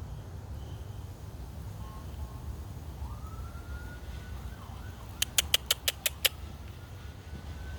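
A faint, thin tone slowly rising in pitch over the second half, with a quick run of about seven sharp clicks about five seconds in, over a steady low rumble.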